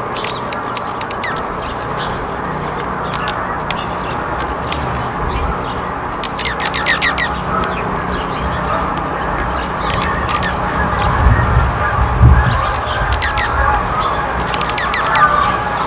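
Small birds chirping and squawking in short, repeated calls over a steady background hiss, with low rumbles about a third of the way in and again past the middle.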